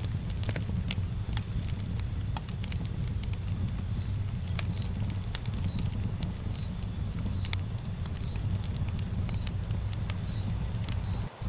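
Campfire burning: a steady low rumble of flames with frequent sharp crackles and pops of burning wood. From about four seconds in, a faint high chirp repeats about every two-thirds of a second.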